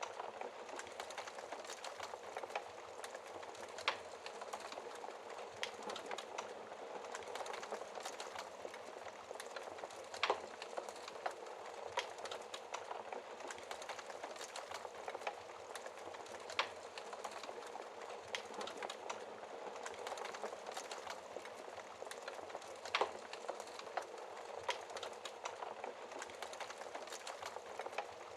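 Wood fire burning in a fireplace: a steady crackle of burning logs, with sharp pops every few seconds.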